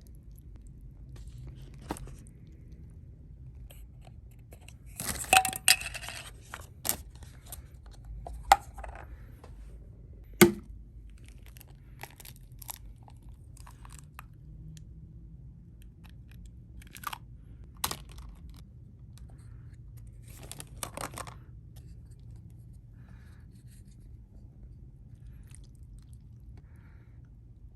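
Handling of a takeaway meal's packaging and utensils: a burst of rustling and tearing about five seconds in, a sharp knock about ten seconds in, and scattered light clicks and clinks, with quiet room tone between.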